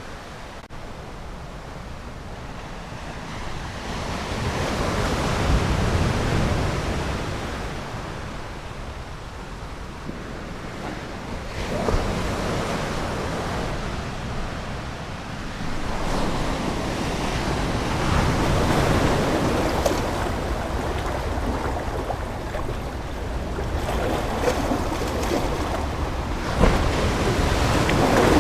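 Ocean surf: waves breaking and washing in, the sound swelling and easing with each wave every several seconds.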